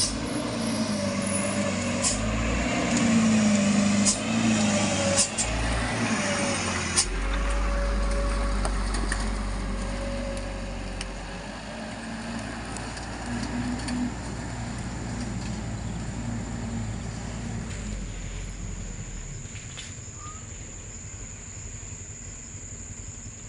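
Loaded truck engine working hard over a rough road, its pitch rising and falling, with several sharp knocks and bangs in the first seven seconds; after about twelve seconds the engine is quieter.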